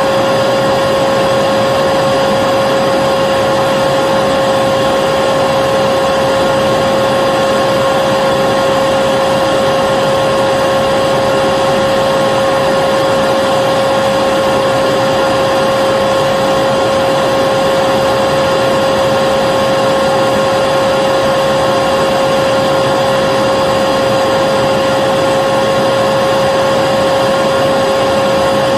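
Vacuum cleaner running steadily: a constant whine over a rush of air, unchanging in pitch and level.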